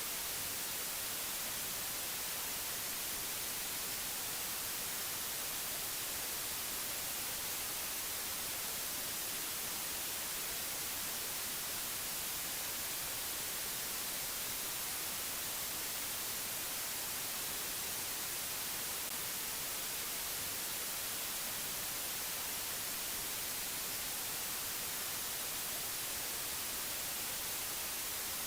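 Steady hiss of white noise, even and unchanging, strongest in the high treble.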